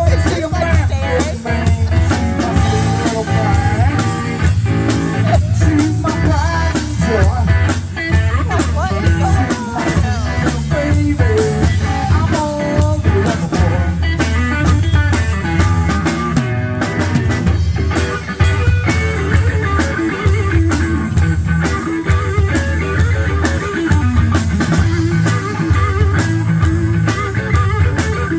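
Rock band playing a blues-rock number, with guitar over bass and drum kit.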